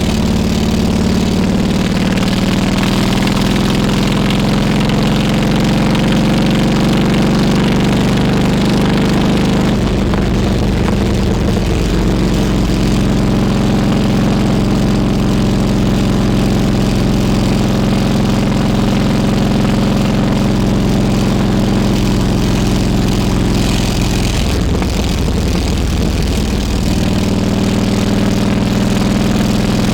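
Harley-Davidson Road King Classic's V-twin engine running while riding, its pitch rising and falling with throttle and gear changes about ten seconds in and again near the end, over a steady rush of noise.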